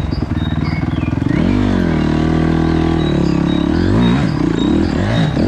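Yamaha YZ125 two-stroke dirt bike engine revving hard, its pitch dipping and climbing as the throttle is worked, with a run of quick rises and falls in the second half.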